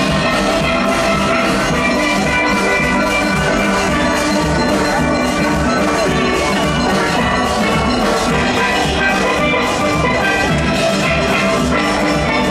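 Steel orchestra playing a full steelpan arrangement, many pans sounding together over a steady drum-kit and percussion rhythm.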